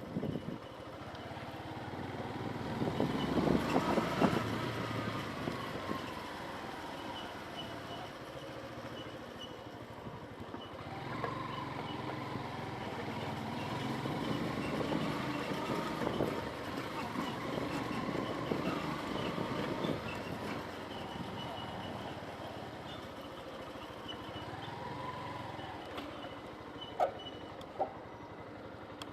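Road traffic: motor vehicles passing, with engine notes rising and falling in pitch. It is loudest about three to five seconds in and again through the middle.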